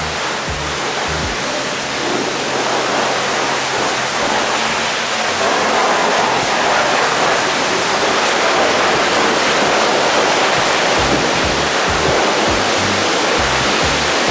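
High-pressure water spraying a truck, a steady hiss that grows louder about five seconds in.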